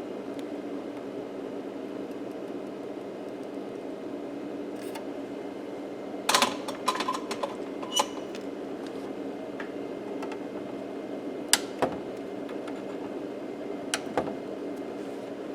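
Small hand tools clicking and tapping against a circuit board on an electronics repair bench: a quick cluster of sharp clicks about six seconds in, then a few single clicks, over a steady low hum.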